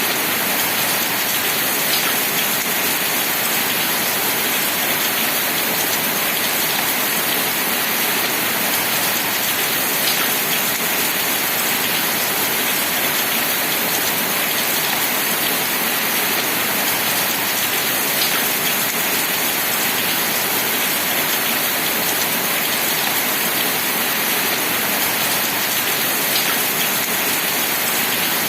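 Steady rain falling, an even hiss of drops, with a faint brief tick about every eight seconds.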